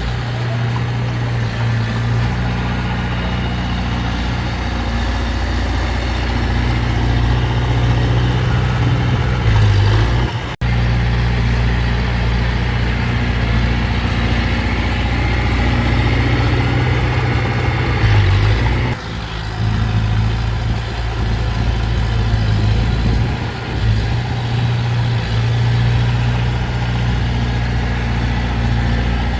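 Heavy diesel engine of earth-moving machinery running steadily, with a brief break about ten seconds in.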